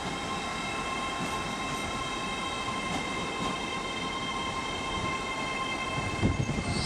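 LNER Azuma electric train (Class 801) pulling into the platform, its traction equipment giving a steady whine of several tones over a low rumble. A hiss and a few low thumps start near the end.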